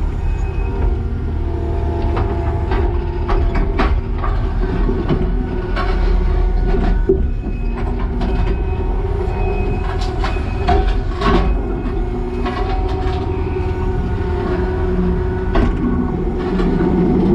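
Kubota SVL90-2 compact track loader's diesel engine running steadily under load, with shifting hydraulic whine as the forks turn a concrete slab chunk. Frequent sharp clanks and knocks of steel forks and tracks against concrete.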